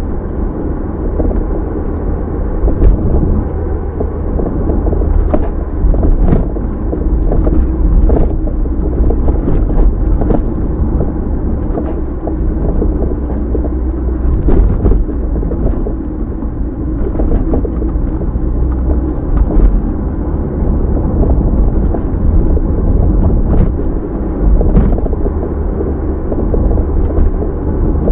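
A moving car's steady low rumble of engine and tyre road noise, picked up by a dashcam mic inside the cabin, with light clicks or knocks now and then.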